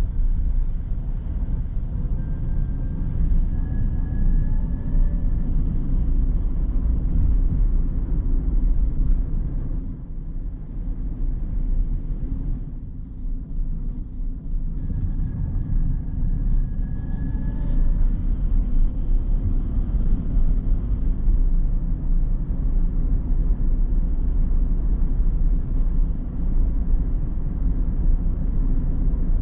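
A car driving: steady low rumble of road and engine noise, easing off briefly about ten to fourteen seconds in before returning to the same level.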